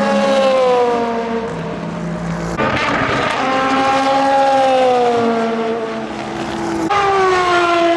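Endurance race cars passing at speed one after another, each engine note dropping in pitch as it goes by. A fresh car arrives about two and a half seconds in and another near the end.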